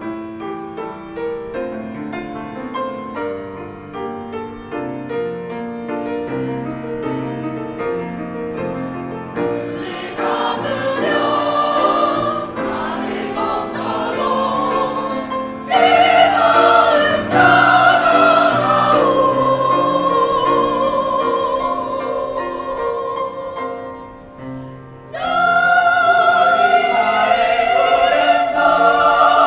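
Choir singing with piano accompaniment. The piano plays alone for about the first ten seconds, then the voices come in, grow louder about sixteen seconds in, fall back briefly, and swell again near the end.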